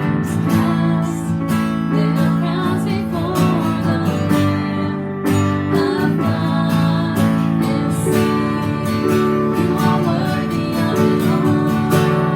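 Music led by a strummed acoustic guitar, chords struck at a steady rhythm.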